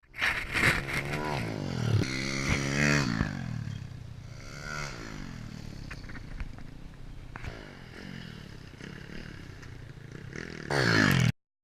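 Kawasaki KLX110 pit bike's small four-stroke single-cylinder engine revving up and dropping back several times, with rattling and scraping. It is quieter in the middle, revs hard again near the end, then cuts off suddenly.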